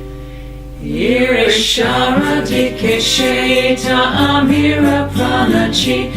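A devotional chanted song: held instrumental tones, then singing enters about a second in and carries a slow melody.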